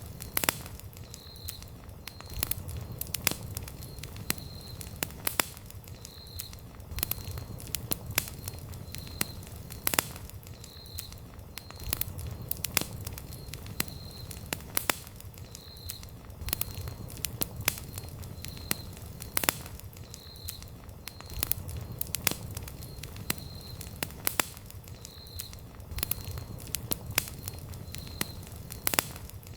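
Wood campfire crackling, with frequent irregular sharp snaps and pops over a low steady rumble.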